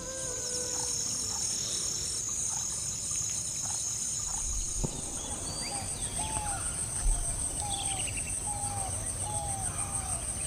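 Insects chirring: a steady, high-pitched pulsing trill. From about six seconds in, an animal gives short calls repeated roughly twice a second.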